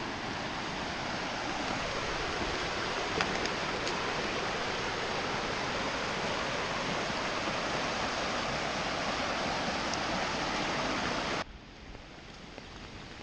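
Flooded creek running fast and loud, a steady rush of high, swollen floodwater. About two-thirds of the way through, it drops suddenly to a much quieter background.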